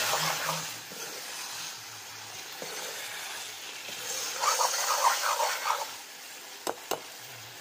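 Chicken pieces sizzling in a wok while a spatula stirs and scrapes them. There is a quick run of scraping strokes a little past the middle and two sharp knocks near the end.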